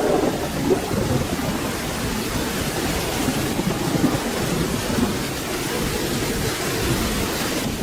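Steady rain falling, with a low rumble of distant thunder rolling underneath.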